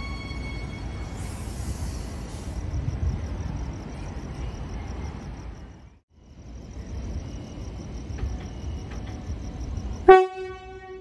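Queensland Rail electric train running past the platform with a low rumble and a faint high whine, fading out about halfway through. Then another electric train standing at the platform gives one short, loud horn toot near the end.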